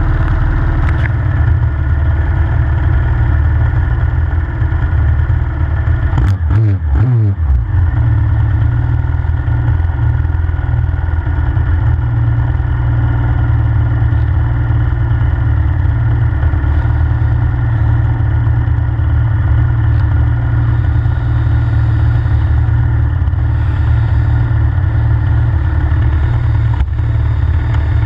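Pit bike's single-cylinder four-stroke engine idling steadily, with one quick throttle blip about six seconds in, its pitch rising and falling back to idle.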